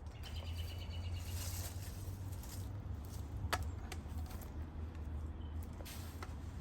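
Outdoor garden ambience: a songbird gives a short rapid trill just after the start, over a steady low rumble, with a single sharp click about halfway through.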